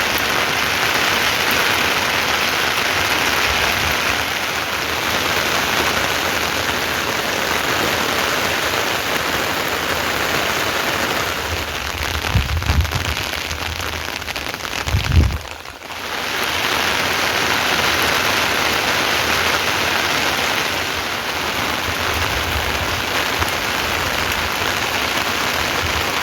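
Steady rain falling, with a few low thumps a little after halfway and a brief drop in the sound just after them.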